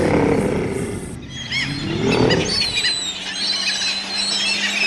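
A bear growling: one low growl at the start and another about two seconds in, with small birds chirping in the background.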